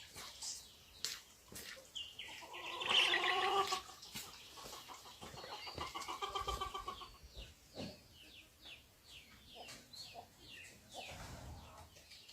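Farm poultry calling: a loud, harsh, drawn-out call about two seconds in and another around six seconds, with many short high chirps throughout.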